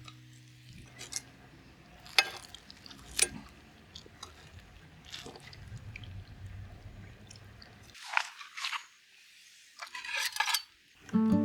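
A few sharp clicks and knocks, the loudest about two and three seconds in, with soft crunching and rustling between them, typical of handling tableware or eating.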